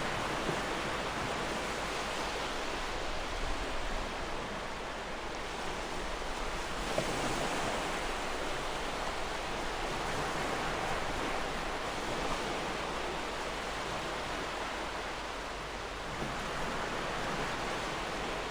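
Gentle ocean waves washing in continuously, a steady surf hiss that swells a little in the middle and eases off again.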